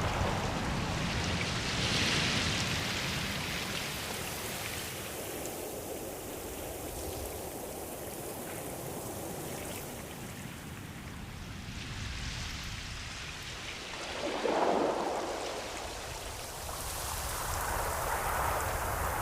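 Ocean surf: waves washing in and drawing back as slow swells of hiss that rise and fade every few seconds, the strongest wash about fifteen seconds in.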